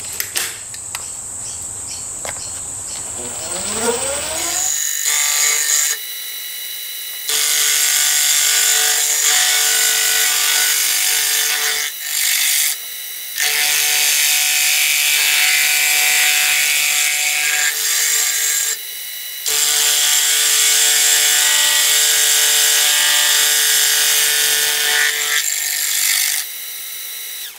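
3-insert face mill on a manual milling machine running up to speed with a rising whine, then from about five seconds in skimming a cast iron cylinder casting: a loud, harsh cutting noise with a steady ringing through it, broken by a few short pauses. The rough, ringing cut comes from a setup with some flex and a homemade milling head lacking rigidity, and it leaves a poor surface finish. The owner suspects the cast iron is chilled and glass hard.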